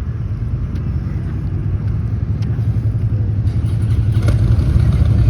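Motor of a 26-foot cuddy-cabin boat running under way, a steady low rumble that grows gradually louder.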